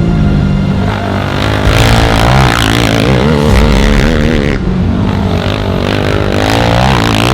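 Racing ATV engines revving hard, their pitch rising and falling over and over with the throttle.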